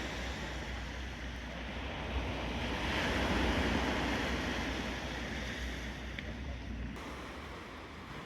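Black Sea surf breaking on the shore, with wind rumbling on the microphone; a wave swells about three seconds in and then slowly washes away.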